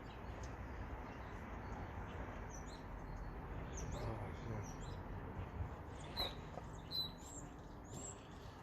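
Small birds chirping outdoors: short, high, quick chirps scattered through, over a steady low background hiss.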